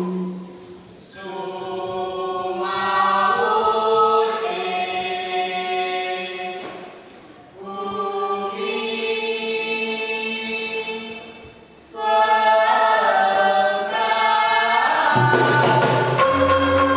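A group of voices singing a chant in held, melodic phrases with short breaks between them. Low instrumental notes join near the end.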